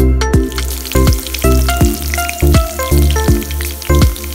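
Hot oil sizzling and crackling in a pan as garlic slices fry, under background music with a steady beat.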